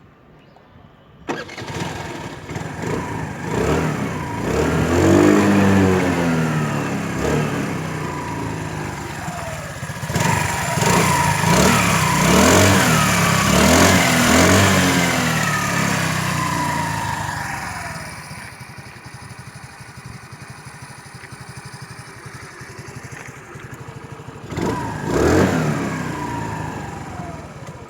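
Hero Maestro Edge scooter's single-cylinder four-stroke engine starting about a second in, then revved up and down several times. It settles to a steady idle, and one last blip of the throttle comes near the end.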